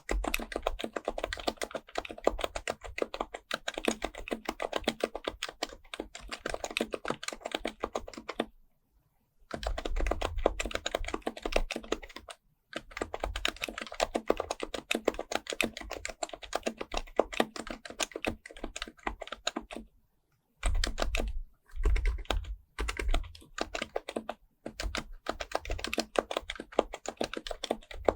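Fast, continuous typing on an HHKB Professional Type-S keyboard with Topre electrostatic capacitive switches: a dense stream of keystrokes broken by brief pauses about eight seconds, twelve seconds and twenty seconds in.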